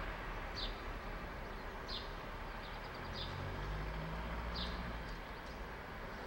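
A songbird repeating one short, high call about four times, a little over a second apart, each note dropping slightly in pitch, over a steady background rumble.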